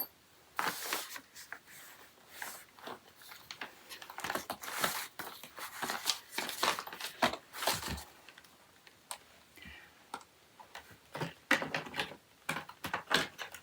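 Small plastic packets of screws and fittings crinkling as they are handled and searched through, with scattered light clicks.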